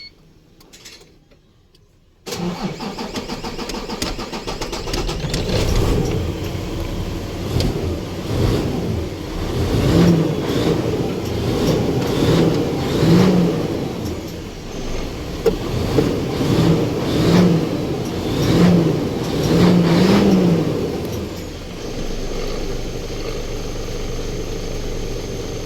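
Isuzu truck's 6WF1 diesel engine, which has been hard starting, cranked on the starter about two seconds in. It catches after a few seconds, is revved several times, and settles to a steadier run near the end.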